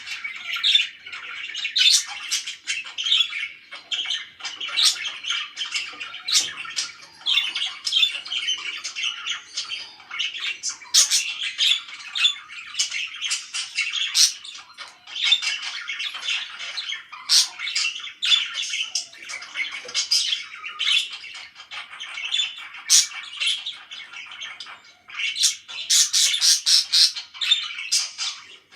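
Pet parakeets chattering and chirping without pause, with many sharp squawks and a burst of rapid shrill calls near the end.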